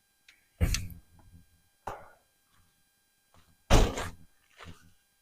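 Four dull thunks at uneven intervals, the first and third loudest, each dying away within a fraction of a second.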